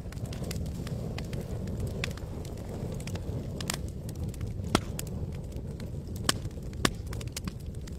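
Campfire crackling: scattered sharp pops and snaps over a steady low rumble of burning wood, with three louder pops in the second half.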